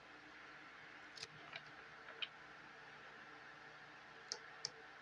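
Faint, scattered light clicks and taps of tarot cards being handled and laid down, over quiet room tone.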